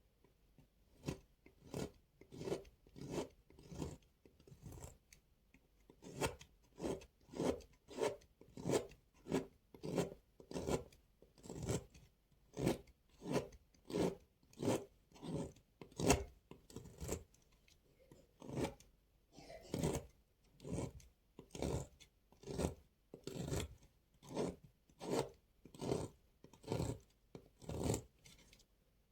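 Knife cutting through a bar of dry soap in a steady run of short crunching strokes, roughly one every half second to three quarters of a second, played back at double speed.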